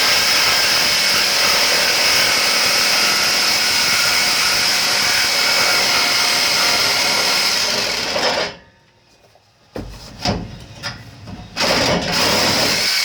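Corded reciprocating saw (DeWalt DWE305) cutting through a truck's exhaust pipe, running steadily with a high, grinding buzz, then stopping abruptly after about eight and a half seconds. Several short, sharp noises follow near the end.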